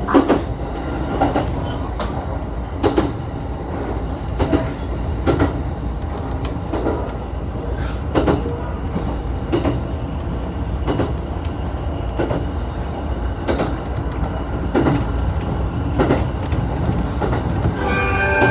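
Shinano Railway train running along the line: a steady rumble with the wheels clacking over rail joints roughly every one and a half seconds. A few steady tones start right at the end.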